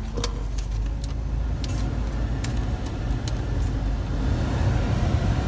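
Car engine running with a steady low rumble, with scattered light clicks and ticks over it.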